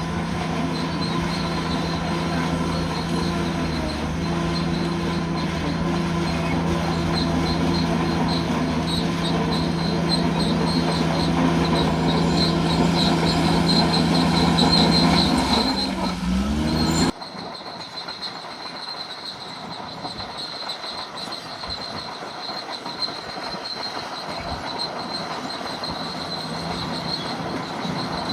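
Bulldozer's diesel engine running steadily, growing louder, with a high pulsing squeal from its steel tracks. The engine pitch dips briefly, then the sound cuts off abruptly a little over halfway through to a quieter stretch where only the track squeal and clatter go on.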